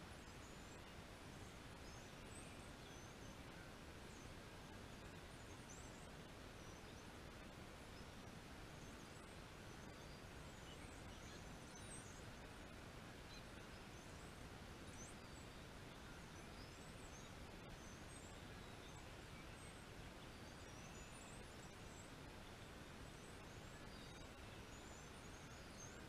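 Near silence: a faint steady background hiss, with many short, high chirps from distant birds scattered throughout.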